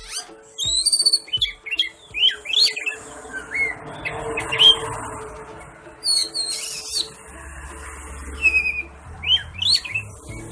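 Oriental magpie-robin (kacer) singing at full song: a quick, varied run of whistled phrases and chirps, the notes sliding up and down.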